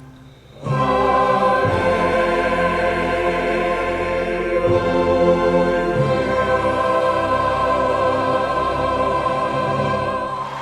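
High school choir singing a slow, held final phrase. It enters after a short pause about a second in, moves through a few long sustained chords, and ends near the end.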